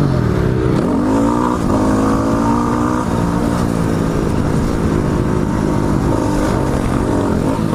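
Single-cylinder four-stroke engine of a modified 2009 Yamaha WR250R, big-bored and stroked to 310 cc with an FMF Megabomb header and Q4 silencer, riding on a motocross track. Its revs fall and climb again several times as the throttle is worked.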